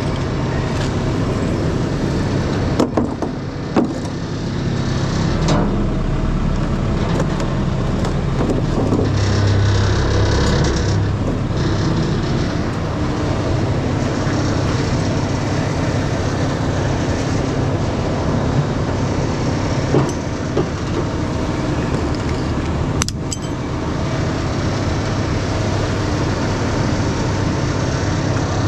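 Heavy diesel truck engine running steadily, swelling briefly about a third of the way in, with a few sharp metallic knocks.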